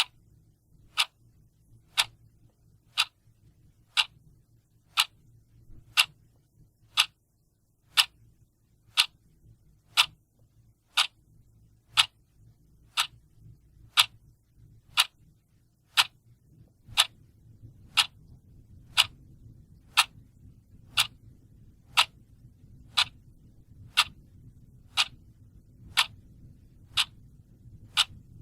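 Clock ticking steadily once a second, each tick a sharp, even click. A faint low hum sits underneath and grows slightly about two-thirds of the way through.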